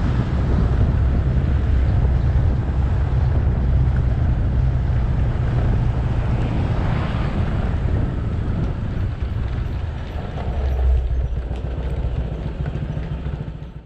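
Motorcycle engine running while riding, with wind rumble on the camera microphone and road noise. There is a brief swell about seven seconds in, and the sound cuts off abruptly at the end.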